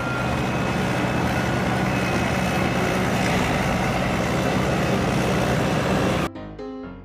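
Motorcycle engine running steadily, then cutting off suddenly a little over six seconds in.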